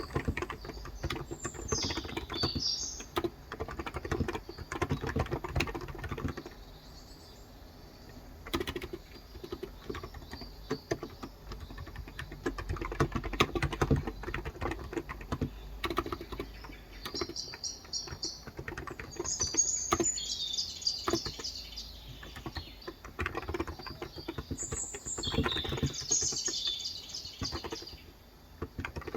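Typing on a Cox Endeavor electro-capacitive (contactless) 35 g tenkeyless keyboard: runs of key presses with short pauses. Birds chirp in the background a few times: near the start, around the middle, and again near the end.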